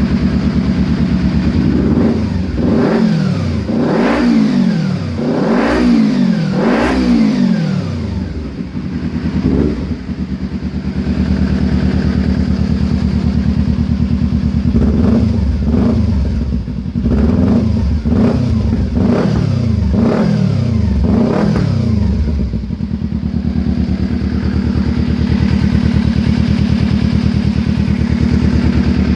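Kawasaki Z250 parallel-twin engine running through an Akrapovic slip-on silencer, idling and blipped in two series of quick revs that rise and fall back to idle, one a few seconds in and another past the middle.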